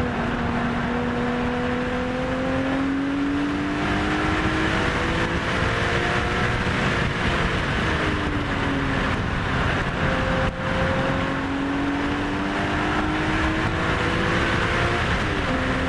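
BMW E46 M3's straight-six, breathing through aftermarket headers, high-flow cats and a Dinan muffler, run hard on track and heard from inside the cabin. The revs climb in long pulls and drop back between them several times.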